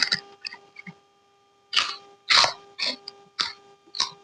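A person coughing: five short, breathy coughs about half a second apart, over a faint steady electrical hum.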